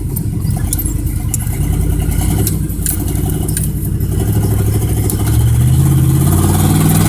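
Chevrolet pickup truck engine pulling and accelerating, its pitch and loudness rising gradually, with a few light clicks in the first few seconds.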